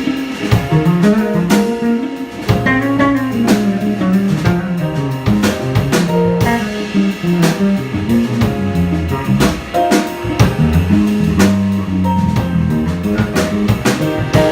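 Live jazz band playing: electric guitar over a walking bass line, with piano and a drum kit keeping time on cymbals.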